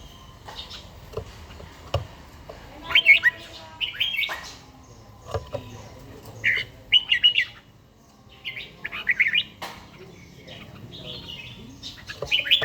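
Red-whiskered bulbul singing: short, bright warbled phrases in bursts every second or two, with a few sharp clicks in between.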